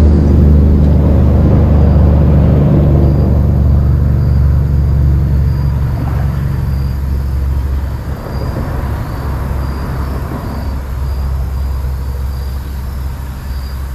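Loud, steady low rumble that eases off somewhat about eight seconds in.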